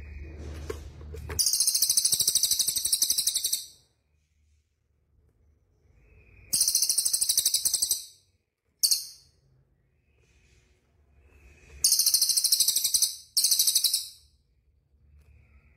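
A songbird giving loud, very high, rapidly pulsing trills in five bursts: a long one of about two seconds just after the start, two more in the middle (the second very short) and two close together near the end, with near silence between.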